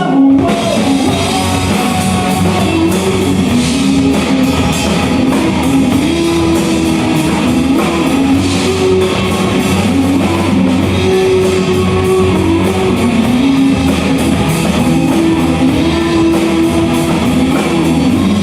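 Rock band playing an instrumental passage: a guitar melody over a steady drum-kit beat.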